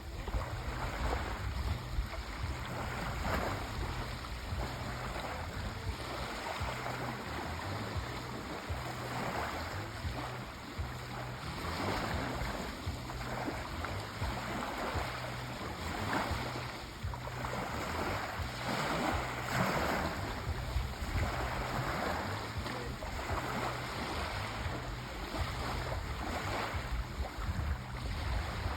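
Sea waves washing in, a continuous wash of surf that swells and eases every few seconds.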